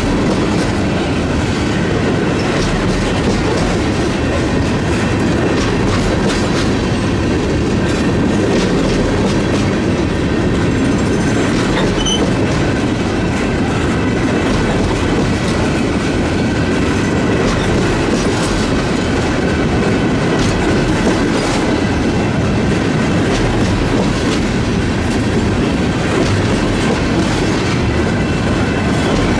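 Empty railroad tank cars of a freight train rolling past close by. The steel wheels clack over the rail joints in an even rhythm above a steady rumble.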